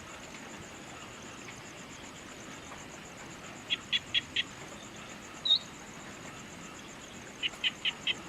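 Evening outdoor ambience: a steady, high, pulsing insect trill with a bird calling in quick runs of four or five short notes, twice, and one louder short rising chirp just past the middle.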